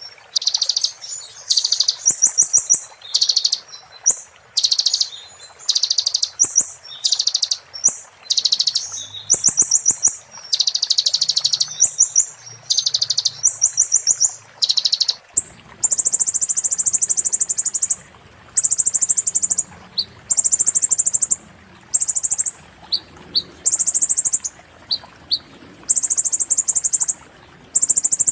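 Konin, a small sunbird, singing very high, rapid, rattling trills in short repeated phrases with brief pauses between them. About halfway through, the phrases become longer and more evenly spaced.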